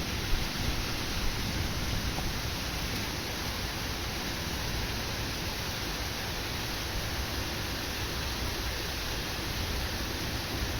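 Steady rain of a thunderstorm downpour, an even hiss with no break.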